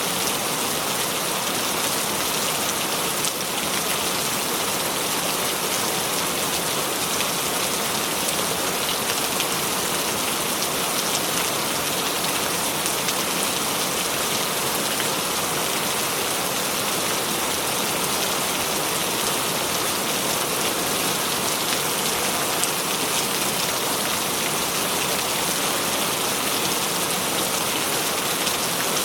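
Steady rain falling, an even hiss of many drops with no thunder or other event standing out.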